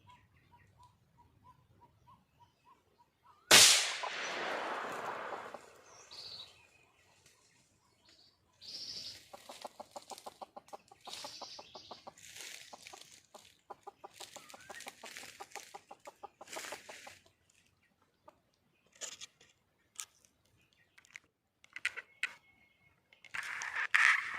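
Red junglefowl (wild chicken) hen calling in a long run of rapid clucks, with scattered shorter calls after it. The loudest moment is a sudden loud rush of noise about three and a half seconds in, which fades over about two seconds.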